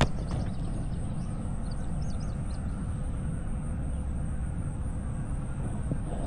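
Steady low rumble of outdoor background noise, with a few faint, short, high chirps about a second or two in.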